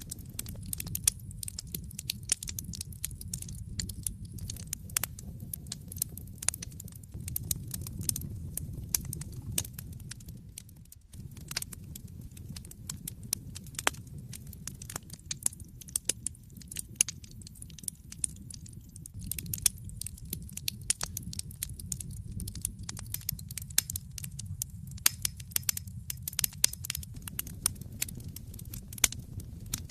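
Wood fire crackling in a fireplace: frequent sharp pops and snaps over a low, steady rumble of the flames. The rumble drops out briefly about eleven seconds in.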